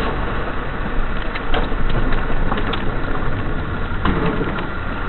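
A car's engine and road noise heard from inside the moving car, steady, with a few light knocks and clicks.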